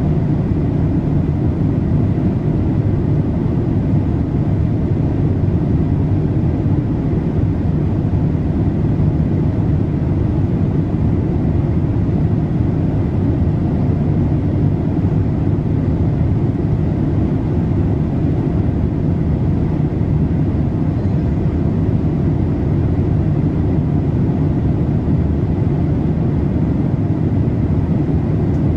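Steady cabin noise inside a Boeing 787-8 in flight: an even, low rush of airflow and engine noise that does not change, with a faint steady high tone above it.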